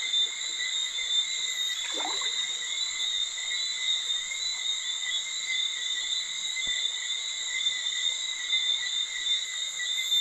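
Steady night chorus of calling frogs and insects, several constant high-pitched tones ringing together over a soft trickle of stream water.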